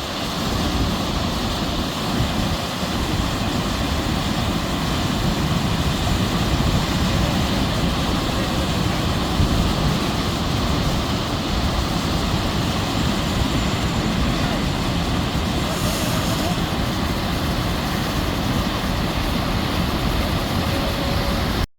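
Steady, loud rush of heavy rain, with wind buffeting the microphone in the low end.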